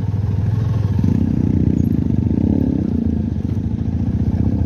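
Motorcycle engine running steadily while riding, a fast even beat that grows fuller about a second in.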